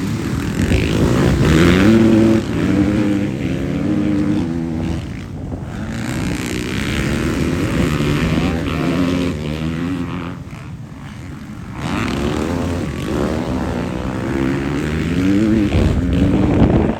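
Motocross bike engines racing, revving hard and shifting up through the gears: the pitch climbs and steps down several times, loudest in the last couple of seconds, then falls away sharply at the very end.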